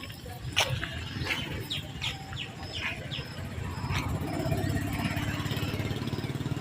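Small birds chirping in quick, repeated short falling notes over a low rumble, which grows louder about two-thirds of the way in.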